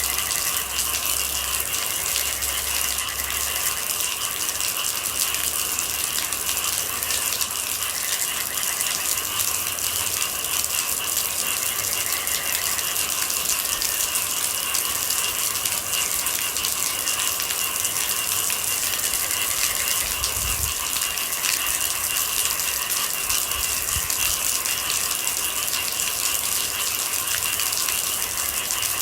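Steady rain with a dense patter of falling drops, over a constant high-pitched trilling from night animals.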